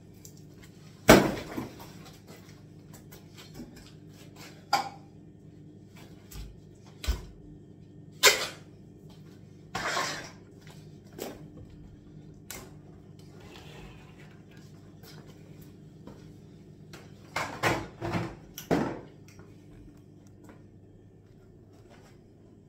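Irregular knocks, bangs and cracks of a rotten, crumbling chipboard kitchen unit being pulled apart by hand, with a cluster of blows about two thirds of the way through.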